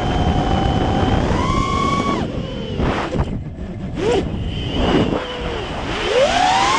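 Brushless motors of a 5-inch racing quadcopter whining, their pitch falling away about three seconds in as the throttle is cut, blipping up twice, then climbing again near the end as it powers back up. Wind rumbles on the microphone underneath.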